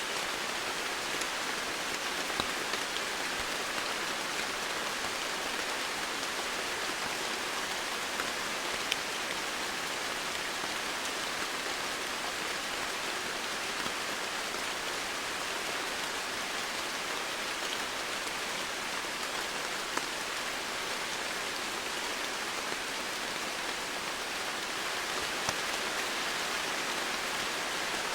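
Steady heavy rain falling, a dense even hiss with scattered sharper drop ticks.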